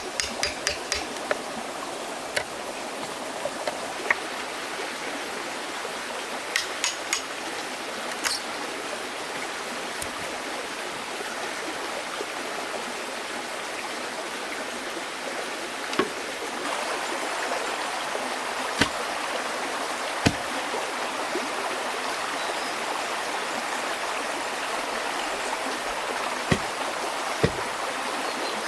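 Steady rushing of a flowing stream, a little louder from about halfway through, with scattered light clicks early on and a few separate sharp knocks in the second half.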